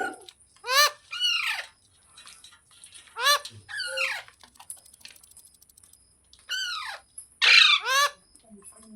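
Green parrot screeching: about seven short calls, each rising then falling in pitch, coming in three groups of two or three.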